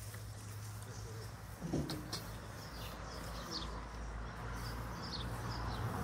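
Small birds chirping outdoors: short, high calls repeating about every half second from about two seconds in, over a steady low rumble. A soft thump comes just before the chirps start.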